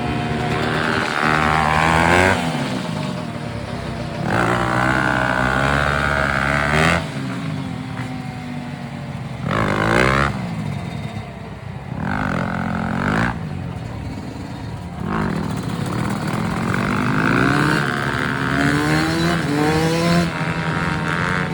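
Yamaha YZ250F four-stroke single-cylinder dirt bike engine being ridden, its pitch climbing and falling again and again with throttle and gear changes, with several loud revving surges.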